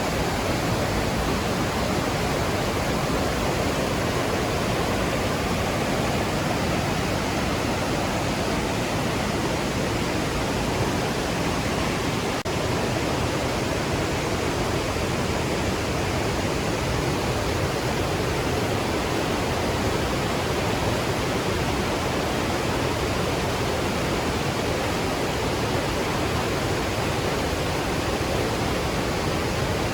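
Låtefossen waterfall's water rushing, a dense, even noise with no breaks.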